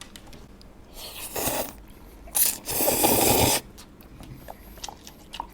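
Spaghetti noodles being slurped: two hissing slurps, the second about a second long, followed by small wet clicks of chewing.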